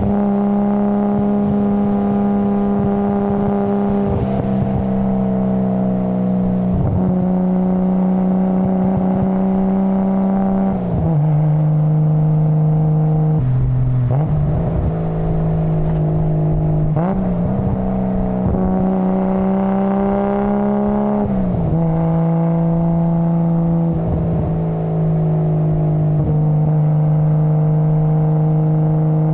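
Nissan Skyline GT-R's RB26DETT twin-turbo straight-six engine and exhaust running at steady, held engine speeds that step up or down every few seconds with short glides between them.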